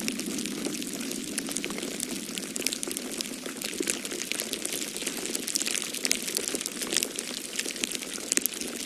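Wood fire crackling in a fireplace, with frequent irregular sharp pops and snaps over a steady low rushing noise.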